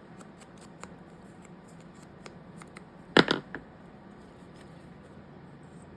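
Scissors and paper being handled: light scattered ticks and rustles, with one loud snip a little after three seconds in and a smaller one just after.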